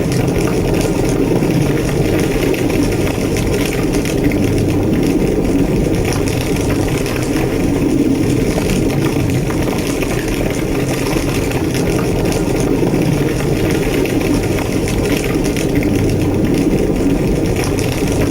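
Large structure fire burning with a steady low roar and scattered crackles.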